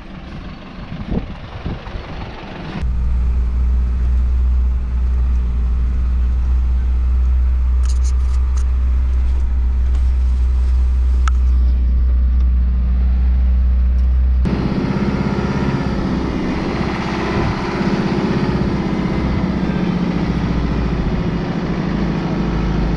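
Isuzu NPS truck on the road with freshly replaced front wheel bearings: a steady low engine and road drone. It starts abruptly about three seconds in and changes suddenly to a different, rougher note a little past halfway.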